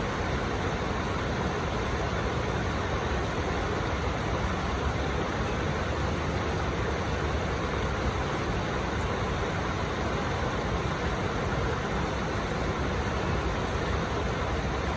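Steady rushing of flowing water, an even hiss with a deep low rumble and no separate splashes or surges.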